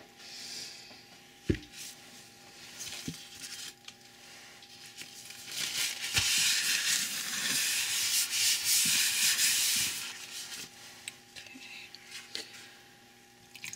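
A utensil scraping and rubbing against a container, with a few soft knocks. The scraping grows loud and rasping for about four seconds around the middle, then fades back to light rubbing.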